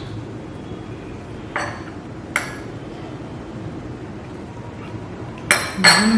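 Eating utensils clinking against dishware four times, each a short bright ring; the last two come close together near the end and are the loudest.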